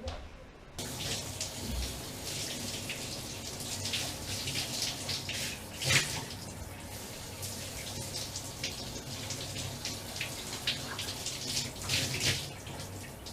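Water running and splashing, starting suddenly about a second in, with a few louder splashes.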